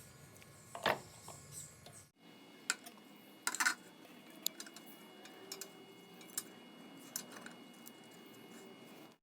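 Light metallic clinks and taps at irregular intervals, a few louder than the rest, like small metal pieces being handled and set down, over a faint steady background hum.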